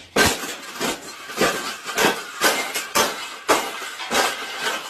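Repeated metallic clanking and rattling of a wire cage, struck about twice a second.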